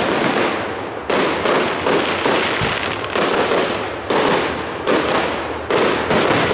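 Aerial firework shells bursting in a rapid series of loud bangs, about two a second, each bang fading out before the next.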